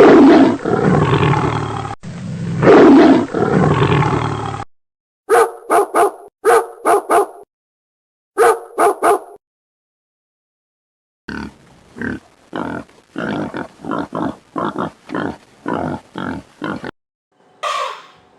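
A sequence of different animal calls. First comes a long, loud call, then several short sharp calls in two groups, and after a pause a run of short grunting pulses at about two a second.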